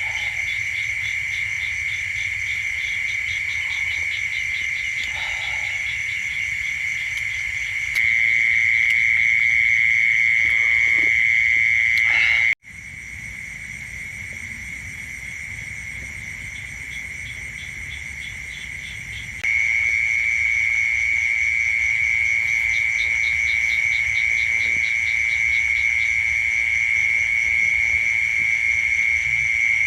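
Night chorus of insects and frogs: a steady high-pitched insect trill with faster pulsing calls over it. The loudness jumps in sudden steps, with a brief dropout about twelve seconds in.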